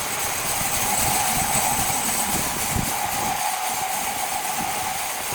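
A machine engine running steadily with a constant mid-pitched whine, with irregular low knocks underneath.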